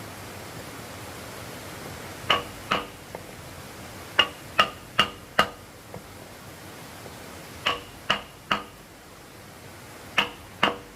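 Hammer blows in short runs of two to four, about two or three a second, each with a brief metallic ring.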